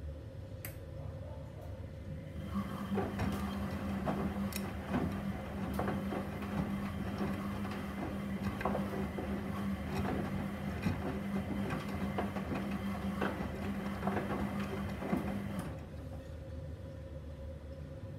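Gorenje SensoCare washing machine in its quick-wash cycle: the drum turns for about thirteen seconds with a steady motor hum while the wet laundry and water slosh and knock inside, then stops suddenly near the end, leaving a low background hum.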